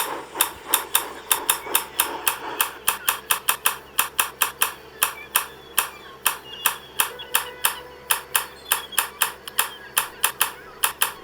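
Rapid, slightly uneven run of sharp clicks or taps, about four or five a second, with no pause throughout.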